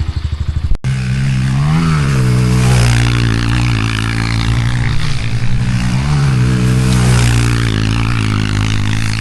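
Small single-cylinder pit bike engine, first ticking over in even putts. About a second in the sound breaks off abruptly and the engine runs steadily under throttle, its revs rising and falling in a few short surges.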